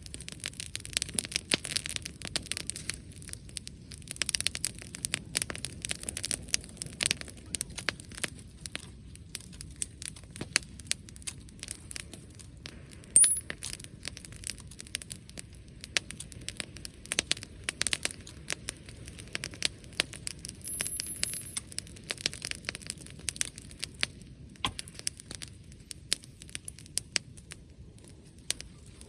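Bonfire crackling: a dense, irregular run of sharp pops and snaps over a low hiss of burning, with one much louder pop about thirteen seconds in.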